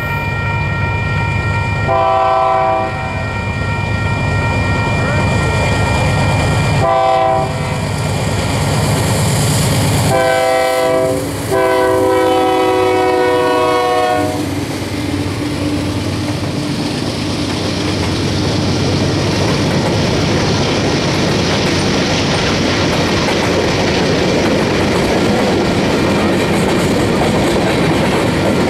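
Union Pacific GE diesel locomotives approach with the horn sounding four blasts, the last held about three seconds as the engines pass. After that comes the steady rolling noise of a grain train's covered hopper cars going by, steel wheels clacking on the rails.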